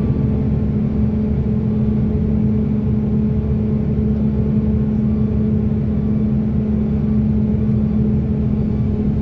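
Heavy hydraulic excavator's diesel engine running steadily, a constant low drone with a steady hum.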